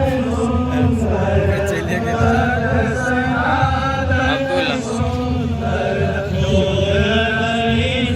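Voices chanting in long, held, melodic lines over a steady low rumble.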